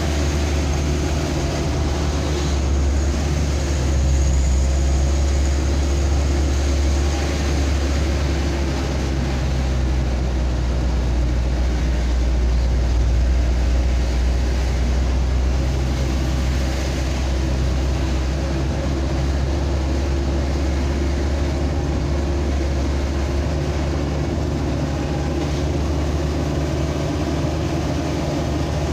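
Steady low engine drone with road noise from a moving vehicle, unbroken and even in level.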